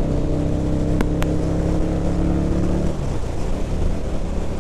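Harley-Davidson V-Rod's V-twin engine pulling under throttle, a steady engine note with wind rushing over the helmet microphone. Two sharp clicks come about a second in, and about three seconds in the steady note breaks up as the throttle comes off.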